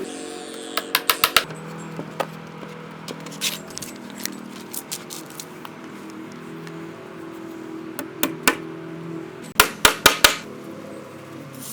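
Hammer driving nails into macrocarpa timber slats: a quick run of four sharp strikes about a second in, a few single knocks in the middle, and four louder strikes near the end.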